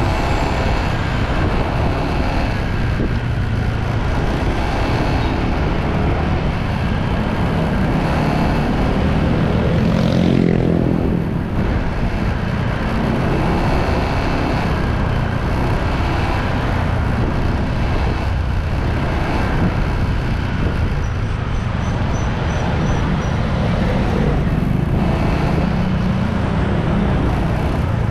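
Motorbike riding along a road: steady engine and road noise. About ten seconds in, a louder vehicle passes, its pitch falling as it goes by.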